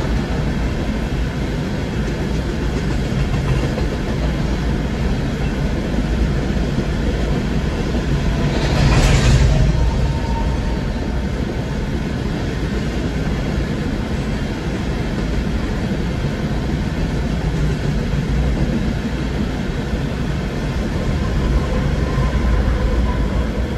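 Empty freight hopper cars rolling past a grade crossing: a steady rumble of steel wheels on rail, heard from inside a car. About nine seconds in there is a brief louder burst of noise, and the sound swells near the end as the rear locomotives, a GE ET44C4 leading them, reach the crossing.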